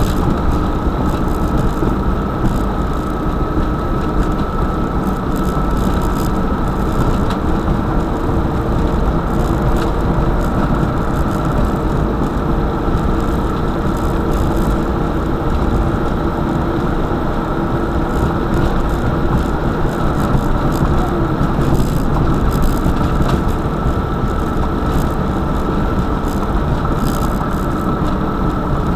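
A motor vehicle under way, its engine running in a steady drone with a faint steady whine over it.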